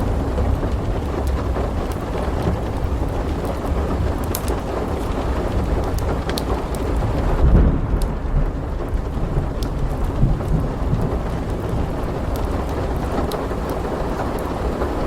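Steady heavy rain with rolling thunder, the rumble swelling to its loudest about halfway through. Sharp pops of a wood fireplace crackling are scattered over it.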